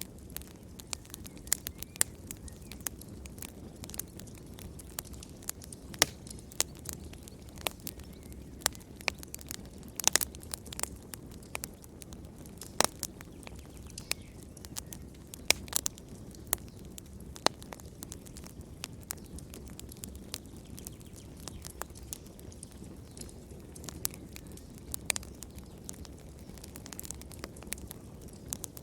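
Wood fire crackling and popping: sharp irregular snaps, a few loud, over a steady low rumble of the flames.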